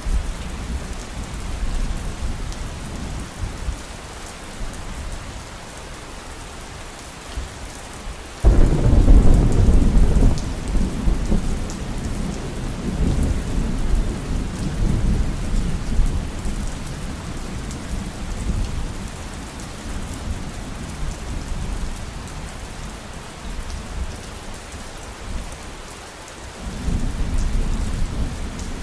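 Heavy rain falling steadily with rolling thunder. A loud thunderclap breaks about eight seconds in and rumbles on, slowly fading, and another rumble of thunder begins near the end.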